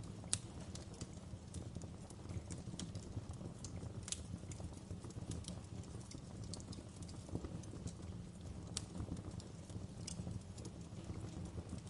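Fire burning in a fireplace and crackling: irregular sharp pops and snaps over a low, steady rumble of flame, with one of the loudest pops just after the start.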